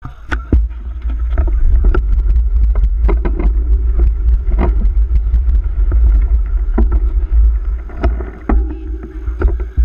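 Wind buffeting the microphone of a bike-mounted GoPro as the road bike rides at speed, with the bike rattling and clicking irregularly over the road surface.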